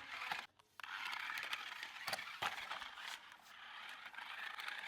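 Toy RC stunt car running, its small electric motors and gears giving a steady whirring hiss, with a few sharp clicks and knocks from the car's plastic body.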